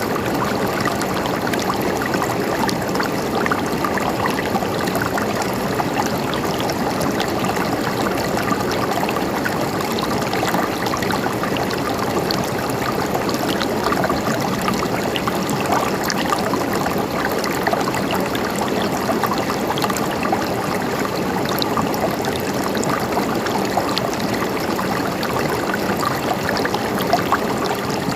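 River water flowing and gurgling steadily over rocks, with many small splashes and trickles.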